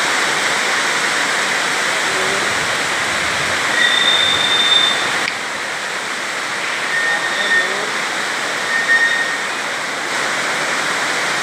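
Heavy rain pouring down in a dense, steady hiss, with a few brief faint high tones heard over it. It drops slightly about five seconds in.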